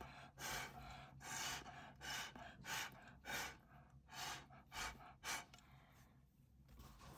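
Quick puffs of breath blown through a straw to push wet acrylic pour paint across the canvas, about eight in a row, easing off near the end.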